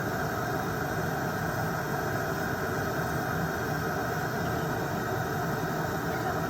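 Electric nail drill (e-file) running at a steady speed, whirring as its bit files off gel nail product.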